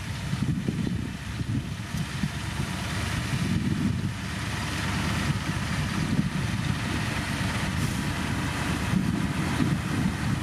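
Heavy construction machine's diesel engine running steadily, a low rumble with wind buffeting the microphone.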